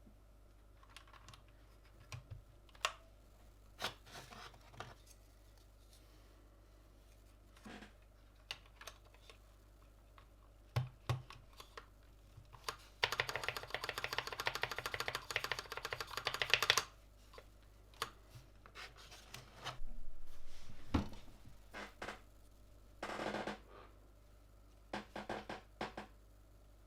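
Keystrokes on a Gamakay LK67 mechanical keyboard fitted with Gateron Red linear switches: scattered single key presses, a fast run of typing lasting about four seconds midway, then a few more short flurries.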